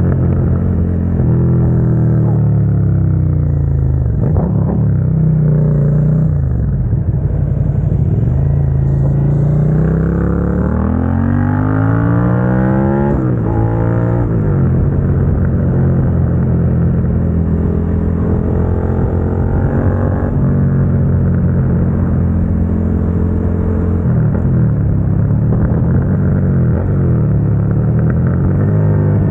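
2022 Suzuki SV650's 645 cc V-twin running through an aftermarket Dominator GP exhaust while riding. The revs fall about four seconds in, climb steadily to a sharp drop around thirteen seconds in as it shifts up, hold a steady cruise, then dip and pick up again near the end.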